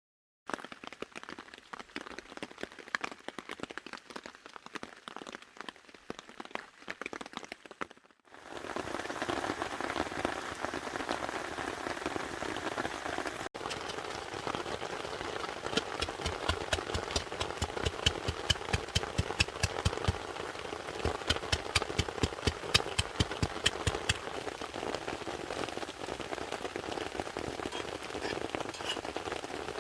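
Rain pattering on a tarp, many separate drop hits over an even hiss. About 8 s in it turns louder and denser, with heavier drops striking the taut fabric.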